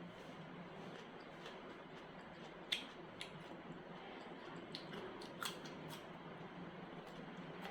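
Eating sounds: a few sharp wet clicks and smacks of chewing over a faint steady hiss, the loudest click a little under three seconds in.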